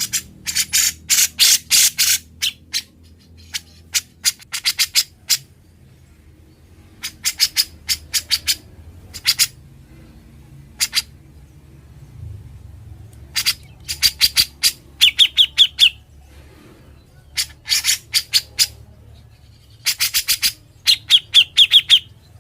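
Cucak jenggot (grey-cheeked bulbul) singing in loud bursts of rapid, rattling notes ('ngebren') with short pauses between them, and a brief clearer trill twice in the second half.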